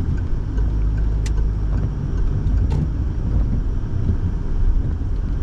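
Car interior noise while driving on wet roads: a steady low rumble of engine and tyres, with the heater fan blowing. Two brief clicks about a second and three seconds in.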